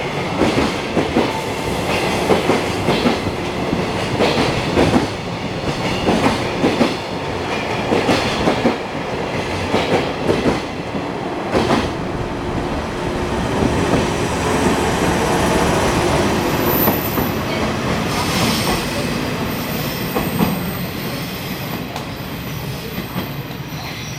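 Freight train rolling past. For the first half its wheels click over the rail joints in a regular clickety-clack, then it settles into a steadier rolling noise. A thin, high wheel squeal joins in during the second half.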